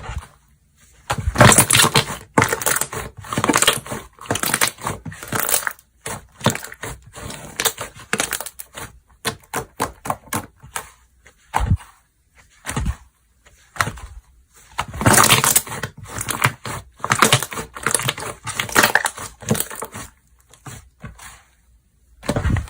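Hands squeezing, poking and stretching slime close to the microphone, making dense runs of quick clicks and pops in several bursts with short pauses between them.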